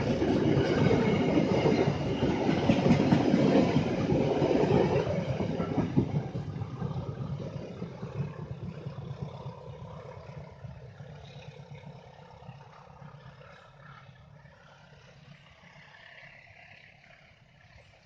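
A train passing by, loud for the first six seconds or so, then fading steadily away as it moves off.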